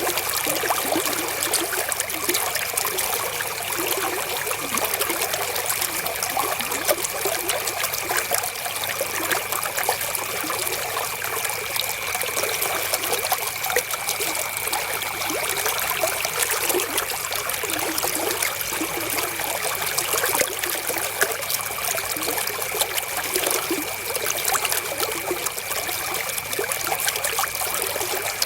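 River water flowing with a steady, even trickling and babbling. A faint steady high tone runs underneath.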